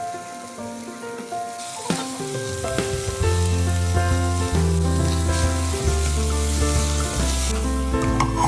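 Food sizzling as it fries in hot oil in a pan, a steady hiss, with background music over it; the music's bass line comes in about three seconds in.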